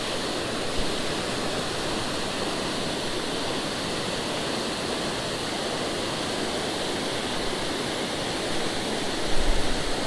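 Creek waterfall rushing with a steady, even roar of falling water. A low rumble comes in near the end.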